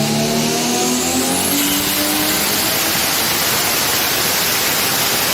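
A car engine accelerating hard at full throttle, its note climbing steadily, then giving way to a loud steady rush of wind and road noise.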